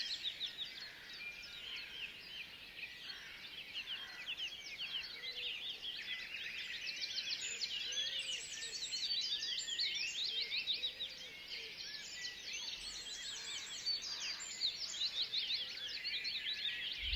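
Woodland birdsong: several small birds singing and chirping together in a dense chorus of quick, high chirps that never lets up.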